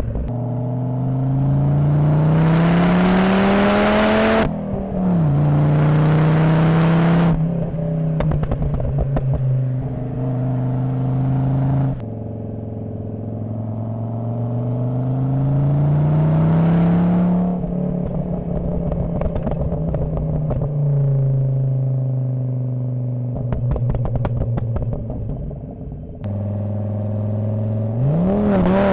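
Volvo 850 T5's turbocharged 2.3-litre inline-five (B5234T3) through a Magnaflow exhaust, heard from the rear bumper: it accelerates in rising sweeps, with a quick upshift about four seconds in. Twice it lifts off and the exhaust crackles and pops on the overrun, then it pulls again near the end.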